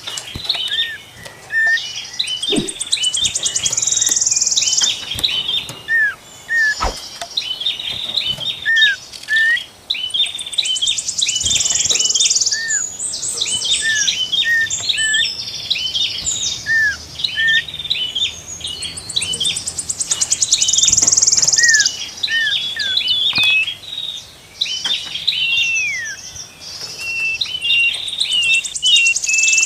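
Songbirds singing: rapid strings of short chirps and whistles, with buzzy, pulsing trills every few seconds and a falling whistle near the end.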